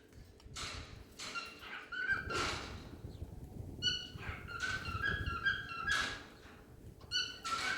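Cockatiel singing: a warbling run of short whistled notes stepping up and down in pitch, mixed with several short, harsh, raspy notes.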